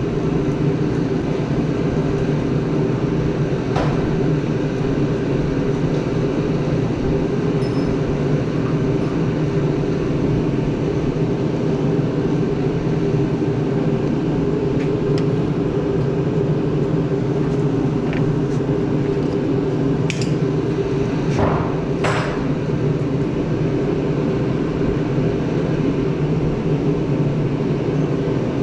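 An engine running steadily at one speed, with a few short knocks: one about four seconds in and several around two-thirds of the way through.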